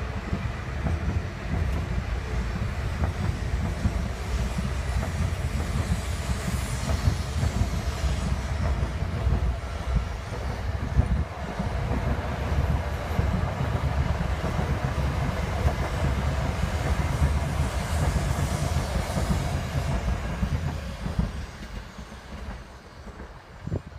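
E5 and E6 series Shinkansen coupled set departing, its wheels rumbling and clattering along the rails, with a rushing hiss swelling twice as the cars go by. The sound fades away over the last few seconds.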